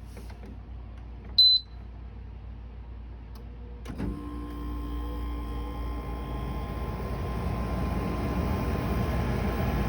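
GE dehumidifier gives one short high beep about a second and a half in. About four seconds in, with a click, it starts up and runs with a steady hum that slowly builds.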